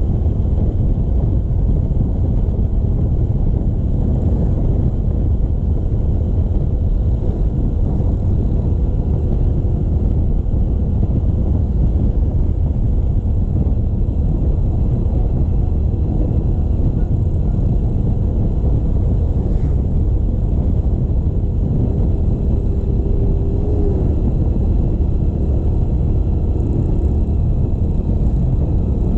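Motorcycle on the move: steady wind rush on the microphone over the running engine and road rumble.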